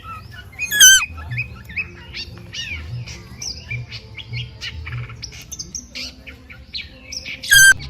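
Birds chirping: many short rising and falling chirps, with two louder squawking calls, one about a second in and one near the end.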